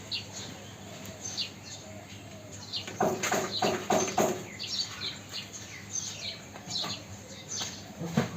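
Small birds chirping repeatedly in short, falling calls, with a louder run of about five sharp sounds about three seconds in.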